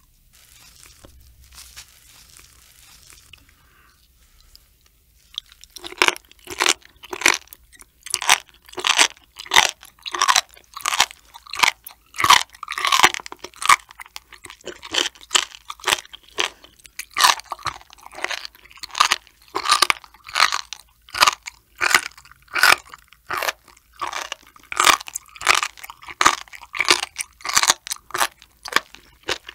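Close-miked chewing of raw sturgeon spinal cord. The chews come in a steady run of sharp strokes, about two a second, starting about six seconds in.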